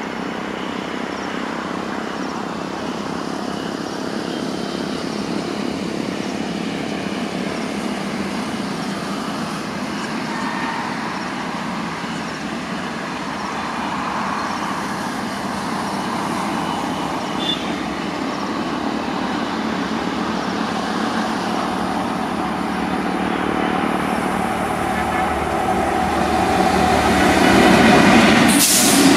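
Electric-locomotive-hauled passenger train approaching on the line, a steady rolling rumble that grows louder over the last few seconds.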